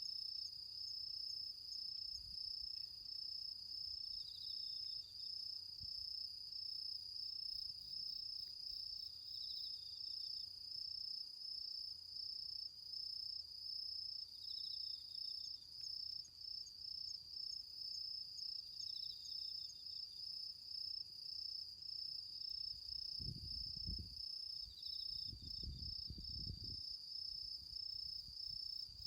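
Autumn crickets trilling in one steady, unbroken high-pitched trill, with a second insect giving a short lower chirp about every four to five seconds. A few low rumbles come in briefly near the end.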